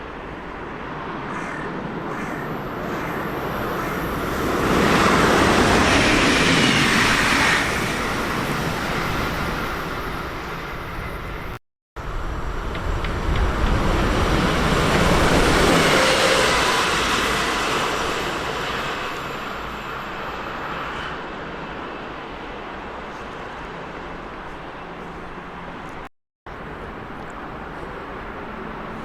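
Trains running through a station: a loud rumble of wheels on rail that swells up and fades away twice, broken by two sudden short cuts.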